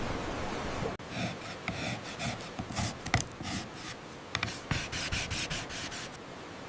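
Wood being worked by hand with an abrasive: a series of irregular rubbing strokes on wood, with a few sharp clicks. The strokes begin about a second in, when a steady hiss breaks off.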